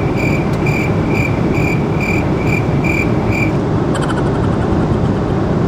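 Loud, steady roar inside an airliner cabin around touchdown. A high beep repeats about twice a second over the first three seconds or so, then stops.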